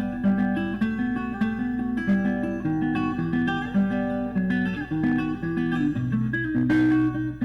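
Background music: acoustic guitar picking and strumming chords at a steady pace.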